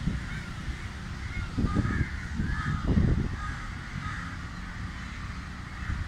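Birds calling repeatedly in short harsh calls over a low rumble on the microphone, which swells twice, about two and three seconds in.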